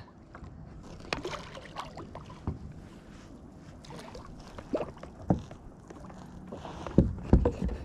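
Light knocks and handling sounds on a fishing kayak while a hooked redfish is worked in alongside, with a cluster of heavier low thumps near the end.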